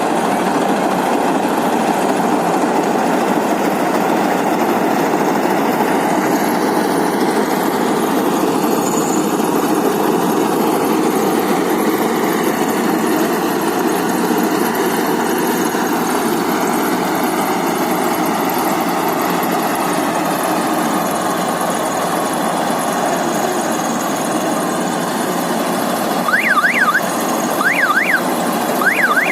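Volkswagen Kombi engine running steadily. Near the end a few quick, high, warbling chirps repeat over it.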